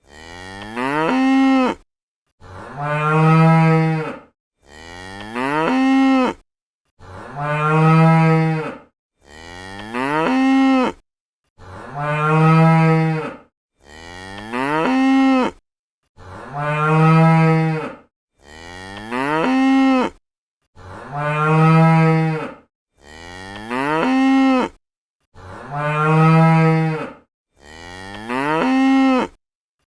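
Cow mooing, the same two calls repeated again and again: one moo that rises in pitch, then one held on a steady pitch, each about two seconds long with short silent gaps between.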